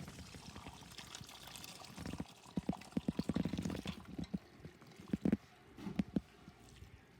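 Kitchen sounds of liquid pouring and sloshing in cookware, with a quick run of clicks and knocks through the middle.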